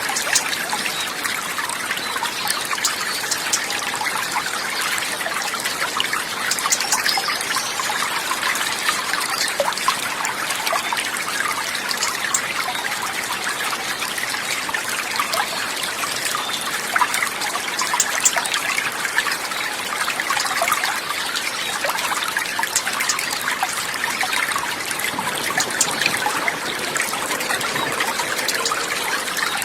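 Steady trickling and babbling of a small stream, with no pauses or changes.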